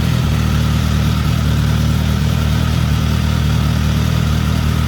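Suzuki GSX-S 1000's inline-four engine idling steadily and smoothly as it warms up.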